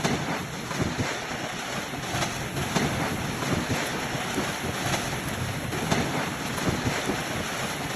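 Storm wind blowing hard and buffeting the microphone: a steady rushing noise with faint scattered ticks through it.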